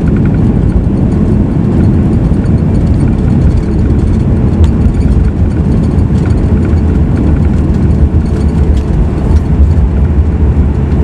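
Steady low rumble of a Boeing 737 MAX 8's CFM LEAP-1B engines and airframe heard inside the cabin, on the ground just after landing.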